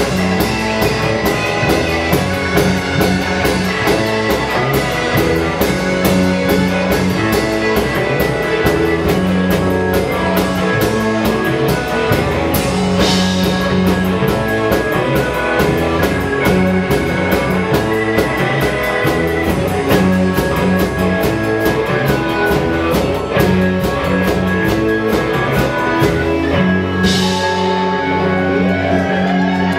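Live rock band playing an instrumental passage with a full drum kit and electric guitars and a steady driving beat. There are cymbal crashes about 13 seconds in and again near the end.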